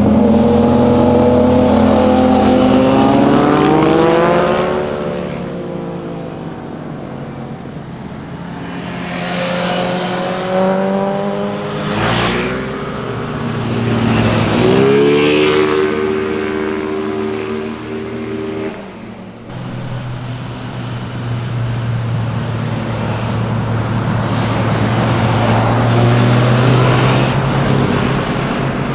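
Sport motorcycle engines accelerating hard past, the pitch climbing in several long rising runs that break off at gear changes, then a steadier, lower engine note that slowly builds near the end.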